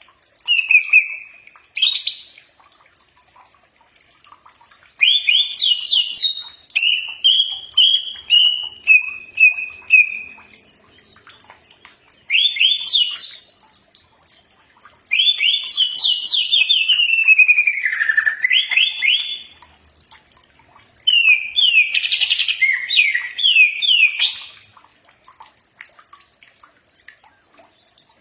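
A green leafbird (cucak ijo) singing in separate bouts of rapid chirps, fast trills and falling whistled runs, with short pauses between phrases.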